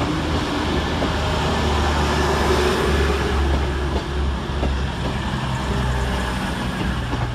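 Diesel multiple-unit train's underfloor engines running, a steady low drone that rises and falls slightly in level, with a few faint clicks.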